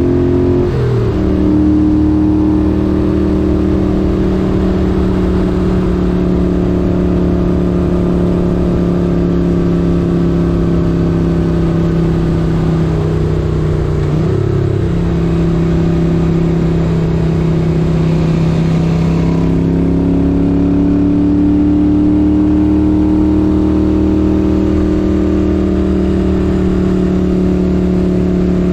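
1978 Moto Guzzi 850 Le Mans's air-cooled 90-degree V-twin engine pulling steadily while riding. Its pitch drops sharply about a second in as it shifts up, dips briefly and recovers midway through, and climbs slowly as it accelerates near the end.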